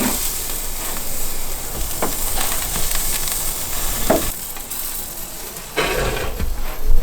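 Food sizzling on a hot charcoal grill: a steady hiss, with a few short knocks or scrapes and louder handling near the end.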